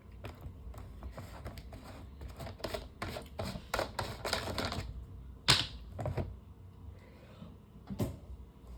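Plastic fan parts being handled and set down: an irregular run of light clicks and knocks, the loudest knock about five and a half seconds in.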